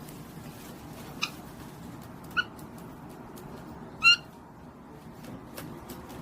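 Pet parrot whimpering: three short, squeaky whining calls, the last and loudest about four seconds in.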